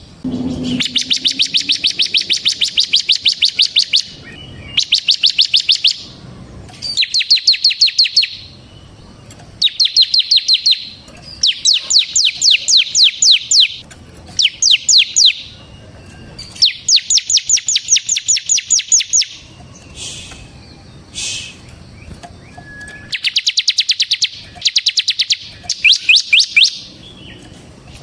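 Bar-winged prinia (ciblek) in full song, delivering rapid rattling trills: bursts of one to three seconds of fast repeated high notes, separated by short pauses, with a couple of single notes about two-thirds of the way through.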